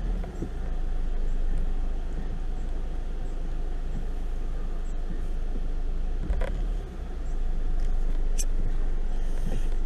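A car being driven slowly over a rough road surface: a steady low rumble of engine and tyres, with a short knock about six and a half seconds in and a sharp tick near the end.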